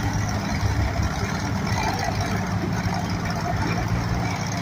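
A large engine running steadily at idle, with a low, even pulsing hum.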